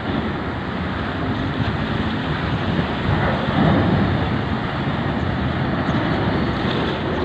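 Steady rumble of a heavy engine mixed with wind on the microphone, growing louder for a moment about halfway through.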